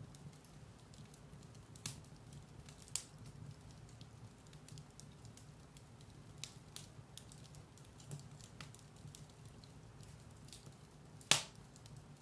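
Firewood burning in a fireplace: a soft steady low rumble of flame with scattered sharp crackles and pops, one louder pop about eleven seconds in.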